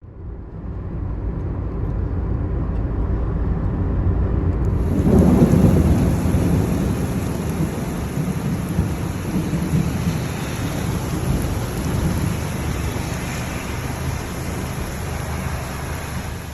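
Thunder rolling during a rainstorm: a long, low rumble that builds to its loudest about five seconds in and slowly dies away, over the hiss of rain.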